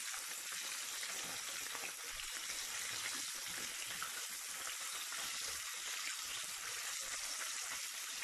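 Batter-coated chicken strips sizzling in hot oil in a shallow pan: a steady, dense frying hiss.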